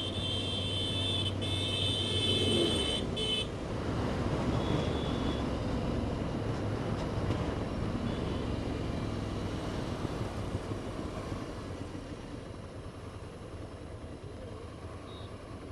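Riding a motorcycle through city traffic: steady road and engine rumble, with a vehicle horn held for the first three seconds or so, a shorter honk a little later, and brief toots near the end.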